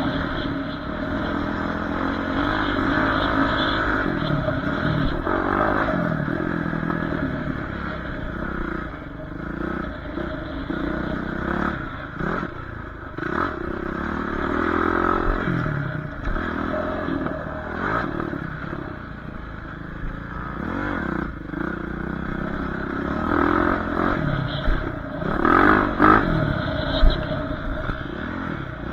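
Dirt bike engine revving up and falling back again and again as it is ridden, with clattering knocks scattered through.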